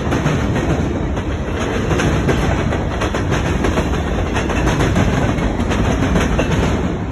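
Cars of a mixed-freight (manifest) train, covered hoppers and autoracks, rolling past: a steady rumble of steel wheels on rail with light, irregular clicking.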